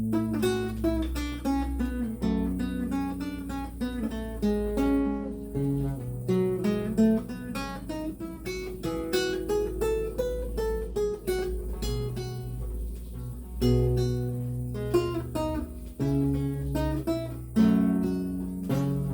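Renaissance lute played solo: a steady run of plucked melody notes over bass notes that ring on beneath them.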